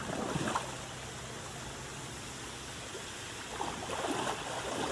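Stream water running steadily, with splashing about the start and again over the last second or so, as a hooked golden trout thrashes at the surface.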